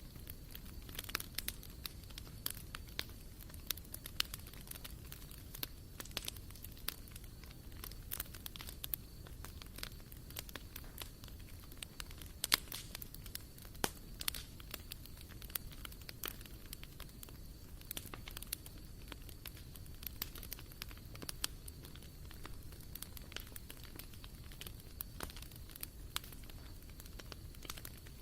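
Wood fire crackling in a barbecue grill: irregular sharp pops and snaps of burning wood over a soft low background.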